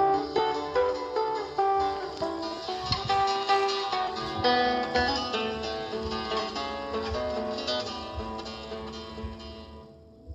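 Spanish guitar playing a melody of plucked single notes and chords. The playing thins out and grows quieter near the end.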